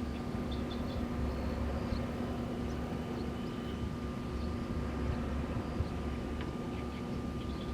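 Wind blowing in uneven gusts, with a steady low hum from wind turbines running in the breeze. Faint short high chirps come and go.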